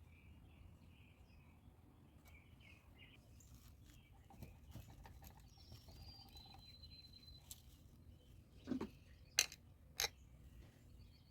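Faint bird chirps in the background, then three short sharp knocks or clicks near the end, about half a second apart.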